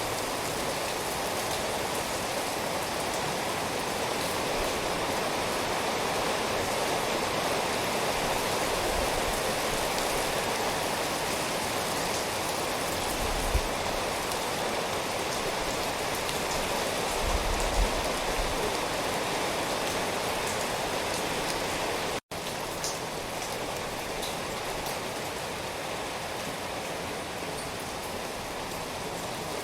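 Steady, heavy rain falling, with two brief low thumps about 13 and 17 seconds in. The sound cuts out for an instant about 22 seconds in, then resumes slightly quieter.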